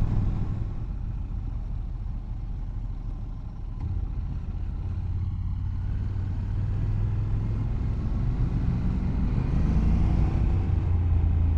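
Motorcycle engine running as the bike climbs, growing steadily louder from a few seconds in, with a rising note near the end as it accelerates.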